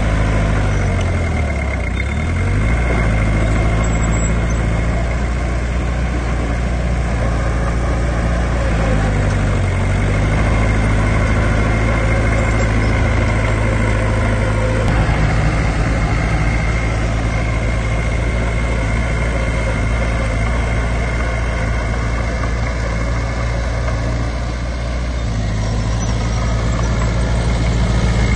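Heavy diesel engine of earthmoving machinery running steadily, its pitch dipping and recovering twice, near the start and about ten seconds in. A thin steady whine runs over it.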